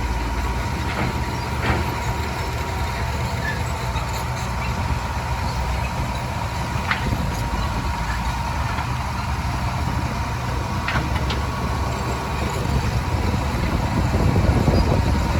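Heavy diesel earthmoving machinery running steadily, with a continuous high tone over the engine and a few faint ticks. The engine grows louder near the end.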